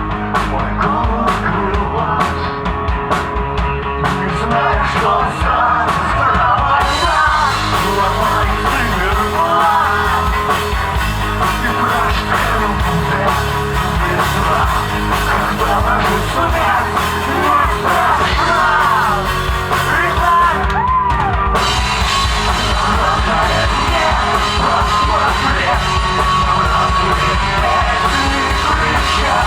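Live alternative rock band playing with drums, bass and guitars, a singing voice coming in about a quarter of the way through. After a brief break about two-thirds of the way in, the band comes back fuller and brighter.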